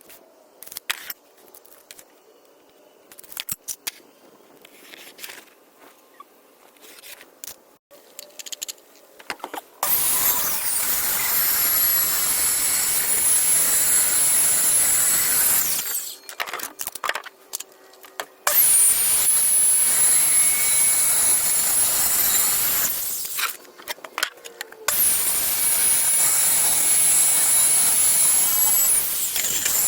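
Some scattered knocks and handling clicks, then an electric power tool run three times for about five seconds each. Each run has a high whine that climbs as it starts and drops as it stops, over a loud, rough cutting or grinding noise.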